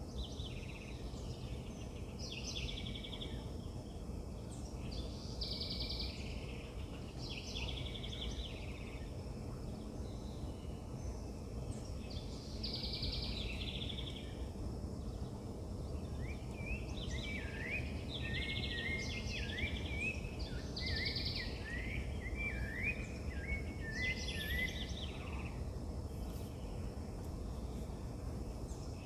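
Wild birds singing: one repeats short, trilled phrases every second or two, and partway through a second bird adds a fast run of quick chirps, over a steady low outdoor background noise.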